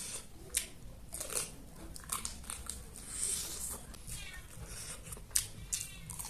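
Close-miked eating sounds: biting, chewing and wet mouth clicks and crunches, with a short squeaky pitched sound about four seconds in.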